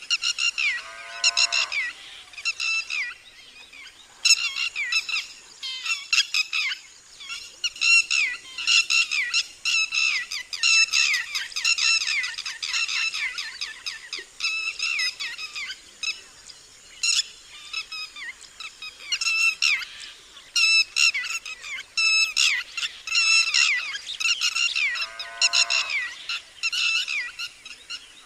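Red-wattled lapwings giving their loud, strident alarm calls: sharp, high notes repeated in rapid runs throughout. A lower, curving call sounds twice, about a second in and near the end.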